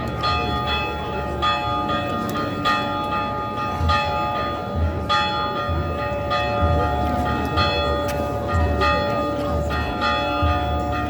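Church bells being rung in a continuous peal, about two strikes a second, the tones ringing on between strikes.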